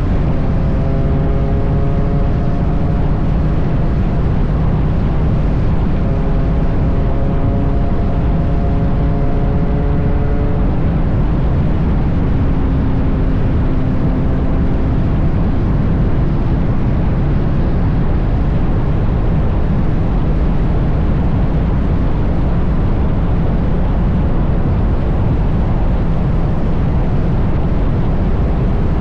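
Steady wind noise on the microphone of a Triumph Bonneville T100 cruising at highway speed. The parallel-twin engine adds an even hum that holds one pitch for the first ten seconds, then again for a few seconds a little later.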